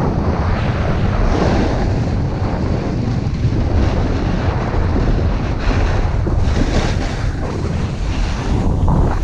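Wind buffeting the microphone: a loud, steady rumble and rush.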